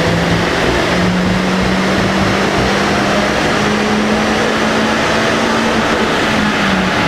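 Opel Corsa OPC's 1.6 turbocharged four-cylinder engine pulling hard under full load on a dyno, its revs climbing steadily. The pitch eases off slightly near the end as the run finishes.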